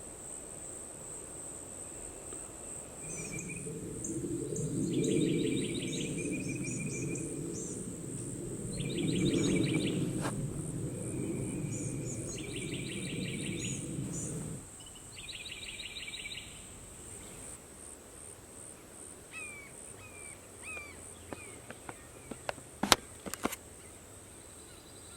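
Outdoor wetland-forest ambience: insects droning in a steady high pitch, while a bird repeats a short trill about four times, each led by a brief note, and gives a few short chirps later on. A low rushing noise runs through the first half and stops about fifteen seconds in, and a couple of sharp clicks come near the end.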